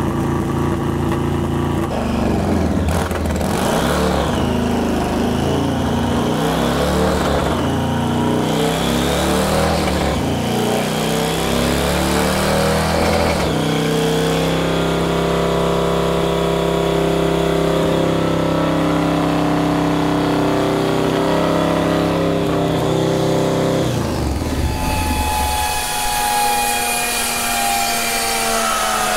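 Orange County Chopper's V-twin engine running on a motorcycle dyno, its speed stepping up and down several times. About 25 seconds in the engine cuts off, after over-pressurized oil has popped the oil cap, and a falling whine follows as the rear wheel and dyno roller coast down.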